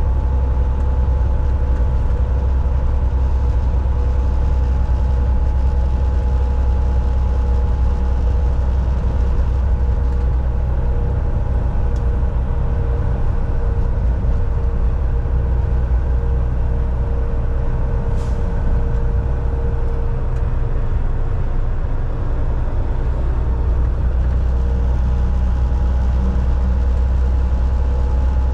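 Volvo VNL 760 semi truck's diesel engine and road noise heard from inside the cab while driving: a steady low rumble with a constant whine. The rumble eases briefly about two-thirds of the way through.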